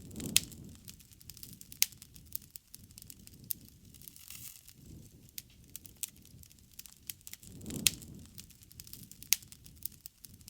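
Wood bonfire crackling, with sharp pops at irregular intervals and louder snaps about half a second in, near 2 s, near 8 s and around 9 s. A low rumble swells up near the start and again around 8 s.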